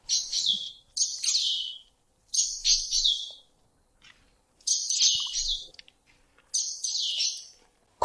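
A Southern African bird calling: about five short bursts of high chirping notes, each sweeping down in pitch, with brief pauses between them.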